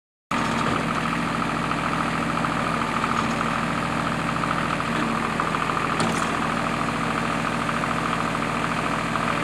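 An engine running steadily at an even speed, with one short click about six seconds in.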